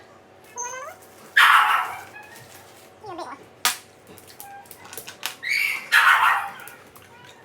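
Dogs vocalising: short whine-like cries that bend in pitch, and two loud rough noisy bursts, one about a second and a half in and one about six seconds in, with a sharp click between them.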